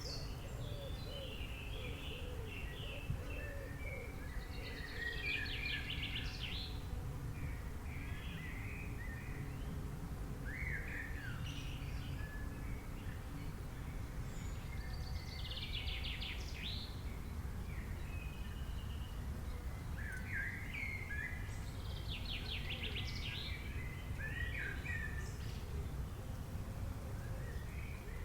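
Several small birds chirping and singing, with short calls scattered throughout and three fast trills, about five, fifteen and twenty-three seconds in, over a steady low rumble.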